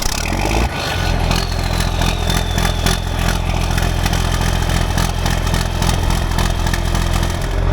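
Combine's diesel engine running steadily just after starting, picking up speed about a second in, with mechanical rattling over the engine note.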